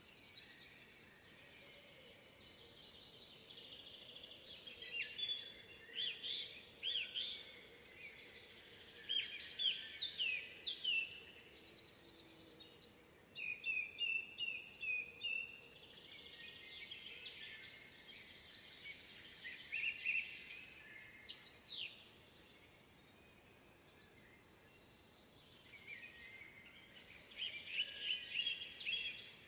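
Woodland birds singing in spring: several bursts of high chirps and song phrases a few seconds apart over a faint steady background.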